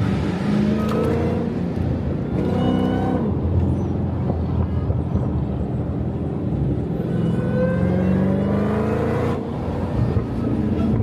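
Car engine running and accelerating, its pitch rising twice: briefly about two seconds in, and again for a couple of seconds after about seven seconds.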